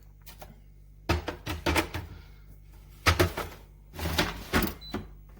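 Plastic drip tray and grounds container of a De'Longhi Dinamica Plus espresso machine being handled and slid back into place: three clusters of clatters, clicks and knocks.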